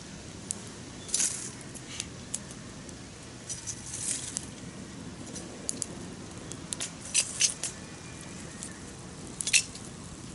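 Wood campfire crackling: irregular sharp pops and snaps over a steady low rush, the loudest pops about a second in, around seven seconds and near the end.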